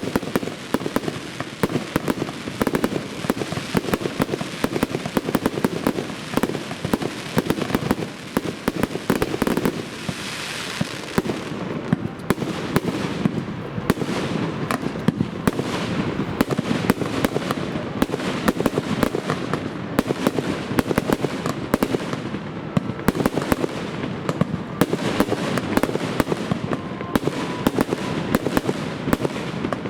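Fireworks display going off: a continuous dense rattle of bangs and crackling, with a brief hiss about ten seconds in.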